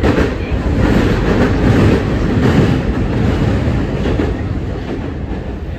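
Kita-Osaka Kyuko 9000 series electric train running on the rails: a loud, steady rumble of wheels and running gear that eases a little in the last couple of seconds.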